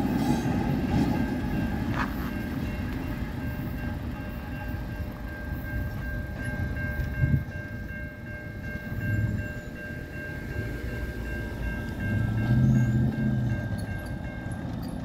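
Freight train rumble fading as the intermodal train pulls away from the level crossing. The crossing's warning bell keeps up a steady high ringing and stops about eleven seconds in, as the gates lift. Near the end, cars drive over the crossing.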